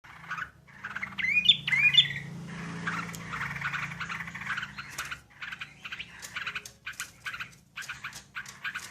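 Yellow-vented bulbul (trucukan) calling, as on a bird-lure recording: two loud rising whistled notes about a second in, then rapid, busy chattering calls.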